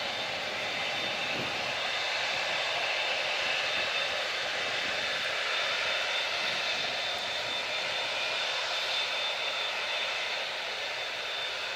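Large four-engined jet airliner's engines at takeoff power: a steady jet rush with several high, even whining tones over it. It swells slightly through the middle and eases a little near the end.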